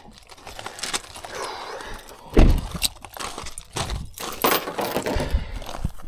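Irregular knocks and clicks of things being handled, with one dull thump about two and a half seconds in.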